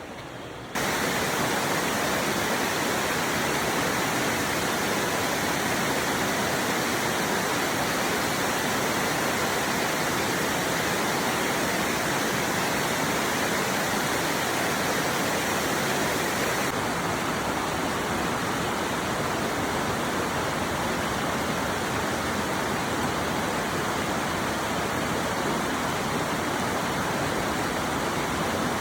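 Steady rush of water from a waterfall, jumping louder about a second in.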